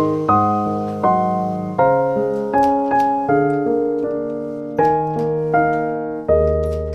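Background piano music: soft chords and single notes struck about every three-quarters of a second, each ringing and fading.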